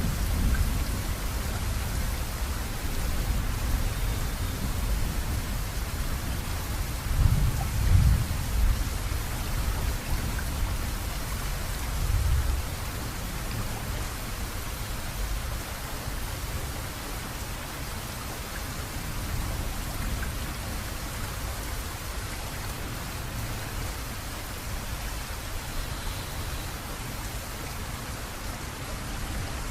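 Steady rain hissing, with low rolls of thunder rumbling under it in the first half, swelling twice, then dying away to rain alone.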